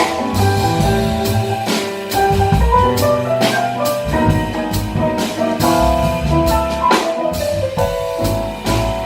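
Jazz piano trio playing: piano over bass and drum kit, with frequent cymbal strokes.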